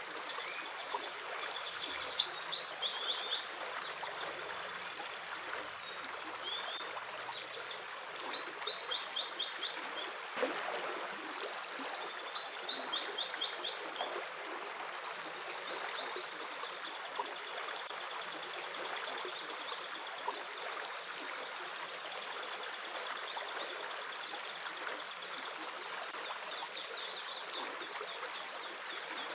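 A stream running steadily, with a small songbird singing short phrases of quick high notes every few seconds, and a thin high trill held for several seconds in the middle.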